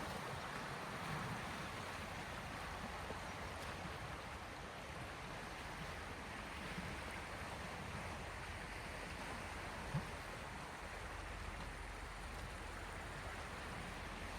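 Sea waves lapping gently at the shore, a steady wash of water. A single brief soft knock sounds about two-thirds of the way through.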